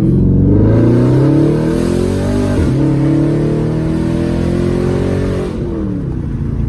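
2012 Dodge Charger SRT8's 6.4-litre HEMI V8 with straight-piped exhaust accelerating hard, breathing out loudly. Its revs climb, break briefly about two and a half seconds in, climb again, then fall away near the end as the throttle comes off.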